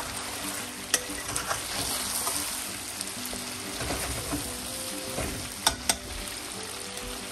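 Chicken frying in oil in a karahi, sizzling steadily while a spoon stirs and scrapes it, with a few sharp clinks of the spoon against the pan, two close together near the end.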